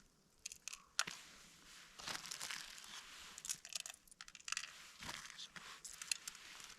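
Packaging crinkling and rustling in irregular bursts, with small sharp clicks and crunches, as pumpkin seeds are handled and sprinkled onto food.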